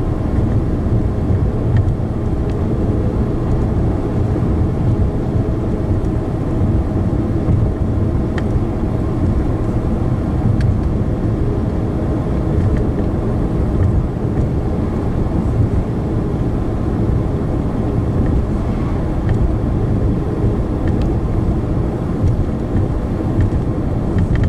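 Steady road and engine noise inside a moving car, a continuous low rumble.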